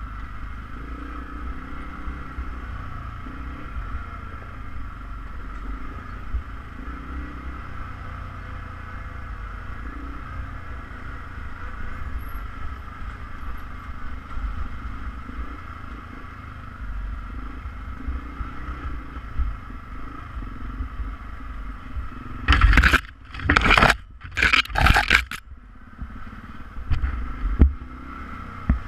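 ATV engine running steadily while riding, with a few loud scraping noises close to the microphone about three quarters of the way in.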